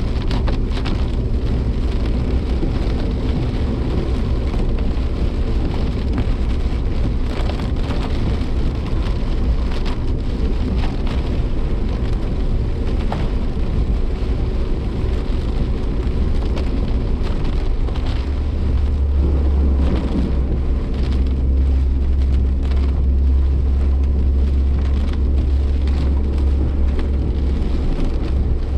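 Suzuki Jimny Sierra driving in heavy typhoon rain, heard from inside the cabin: a steady low road and engine rumble, with rain pattering on the body. The rumble grows louder about two-thirds of the way through.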